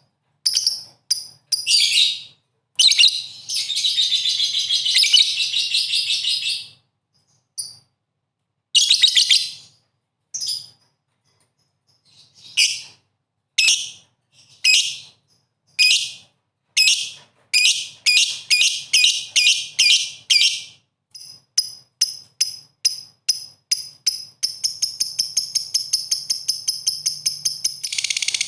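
Small songbird singing: high-pitched chirps and rapid trills in bursts broken by short silences, then a long fast, even trill near the end.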